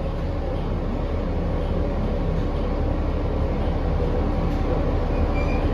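Cabin noise of a 2019 New Flyer XD40 diesel bus under way: a steady low drone from engine and driveline, slowly getting louder, with a few faint high whines near the end. It is the unusual noise that the rider finds insane and cannot explain.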